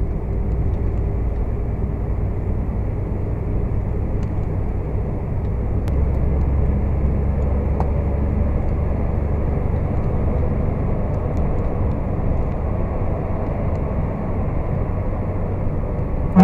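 Semi truck driving: a steady low engine and road rumble. The low drone steps up about six seconds in and holds.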